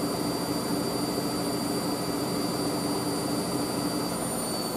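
Hoover SIX AAA160 washing machine in its 800 rpm final spin: a steady motor whine over the rush of the spinning drum. The whine begins to fall in pitch near the end as the spin starts to wind down.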